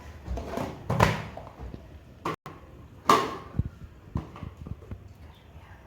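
A few scattered knocks and clunks from kitchen things being handled, the loudest about a second in and about three seconds in, with no blender motor running.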